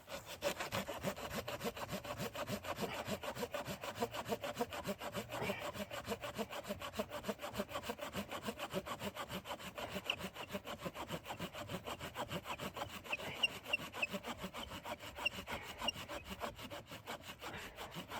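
Hand saw cutting through wood in quick, even back-and-forth strokes, several a second.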